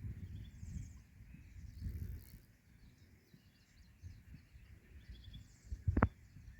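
Small birds giving short, faint chirps over an irregular low rumbling noise, with a single sharp thump about six seconds in.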